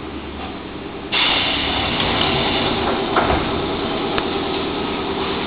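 Inside a Nankai Kada Line electric train car: steady train noise that jumps suddenly louder about a second in, then stays up, with a couple of short knocks.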